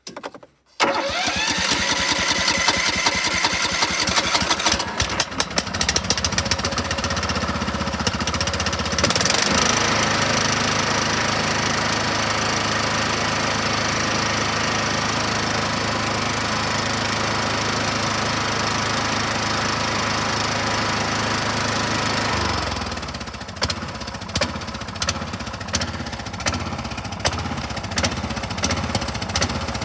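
Toro riding mower's Kohler Courage engine firing up about a second in on a cold start with no choke, its speed climbing over the first few seconds. It runs steadily, a little faster from about nine seconds in, then drops back to a lower, uneven speed about 22 seconds in.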